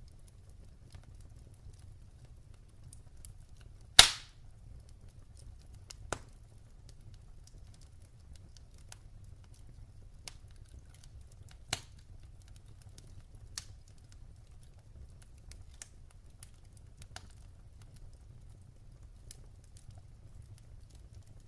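Wood fire in a fireplace crackling: scattered sharp pops and snaps at irregular intervals over a low steady rumble, the loudest pop about four seconds in.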